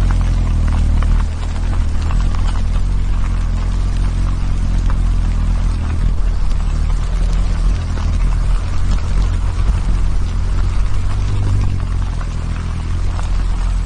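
A steady, loud low hum made of several evenly spaced low pitches, with a faint hiss above it.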